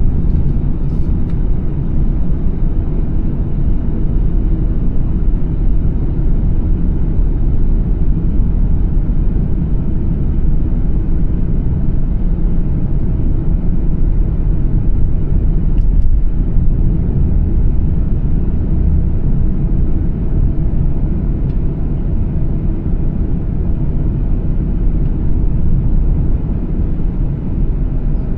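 2014 BMW 435i's turbocharged inline-six running, a steady low rumble with no rise or fall in pitch.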